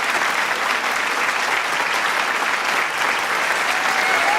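Large crowd applauding with dense, steady clapping, and a few shouts of cheering rising out of it near the end.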